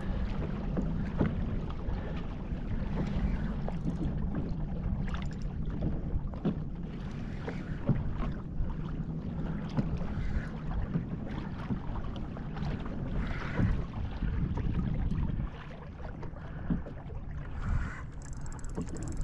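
Water and wind noise around a fishing kayak on open water, a steady low rumble with scattered light knocks and clicks.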